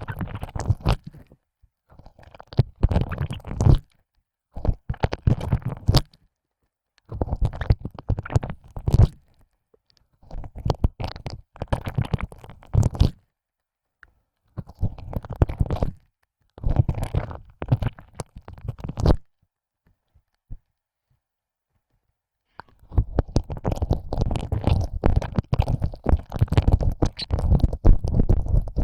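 Close-up ear licking: a tongue pushing in and out of an ear hole, making wet, sticky clicking in bursts of one to three seconds with short pauses between. It stops for about three seconds near the end, then carries on without a break.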